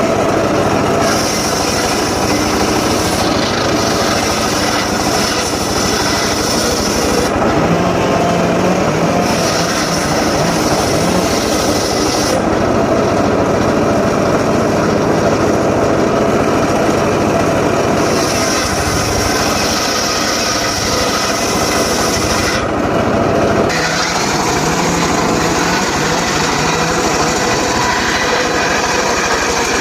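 Engine-driven saw cutting teak wood, running continuously. Its tone changes every few seconds as the blade goes into and out of the wood.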